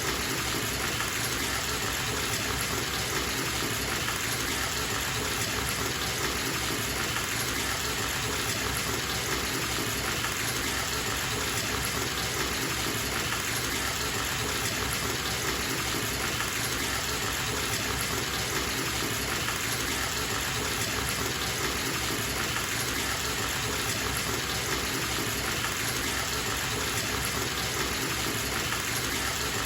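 Bathtub tap running full, water gushing steadily into the tub.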